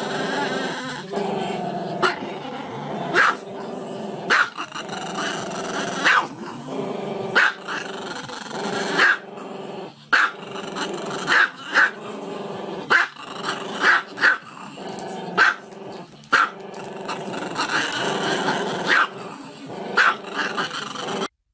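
Small black-and-tan dog howling and growling with its muzzle raised, a steady drawn-out cry broken by sharp barks roughly every one to two seconds.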